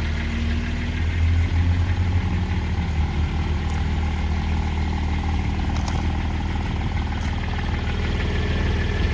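A Porsche 718 Boxster Spyder's naturally aspirated 4.0-litre flat-six with sport exhaust idles steadily, still warming up after a cold start. Its pitch eases down slightly about three seconds in.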